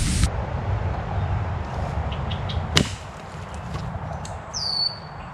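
Knife work on a wooden stick, with a sharp snap or crack about three seconds in. A bird gives one short falling whistle near the end.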